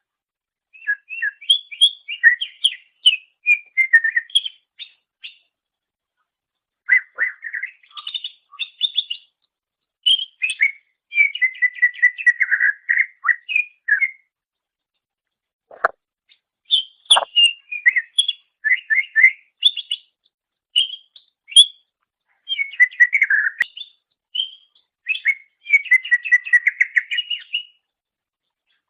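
Green leafbird (cucak ijo) singing: rapid, varied phrases of chirps and whistles, in bursts of a few seconds separated by short pauses.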